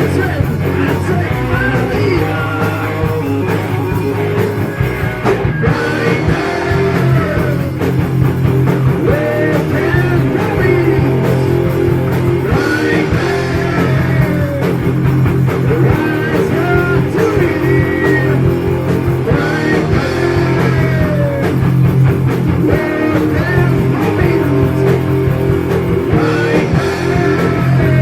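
Heavy metal band playing: distorted electric guitars, bass and drums over a steady low riff, with a bending melodic line on top.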